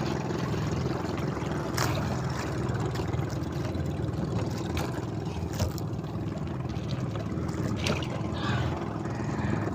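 A small fishing boat's diesel engine running steadily, with a few sharp knocks on board.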